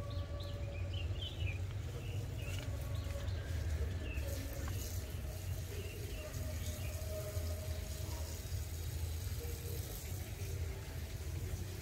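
Small birds chirping in short, high calls, busiest in the first few seconds, over a steady low rumble.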